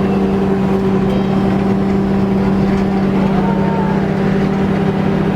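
Amphibious tour vehicle's engine running with a steady drone.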